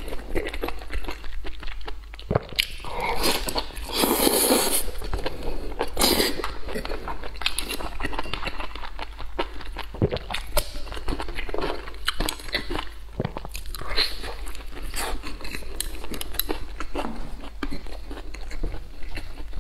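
A person eating close to a clip-on microphone, biting and chewing enoki mushrooms and pork, with many short wet clicks and a louder stretch about four seconds in.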